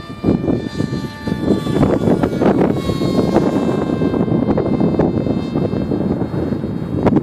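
Electric motor and propeller of a HobbyKing Radjet RC plane whining in flight, its pitch shifting a little about two to three seconds in. Heavy wind buffets the microphone throughout.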